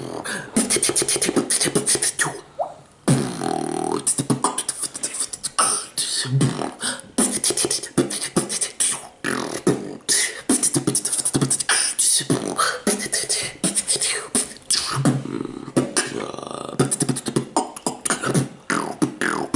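Freestyle beatboxing: a fast run of mouth-made kick, snare and hi-hat sounds, with short hummed or sung pitched notes mixed in. There is a brief pause about two and a half seconds in.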